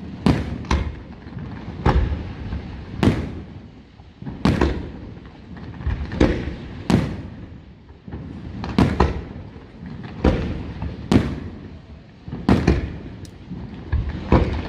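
Aerial firework shells bursting in a steady series of loud bangs, roughly one a second and sometimes two close together, each trailing off in a rumbling echo.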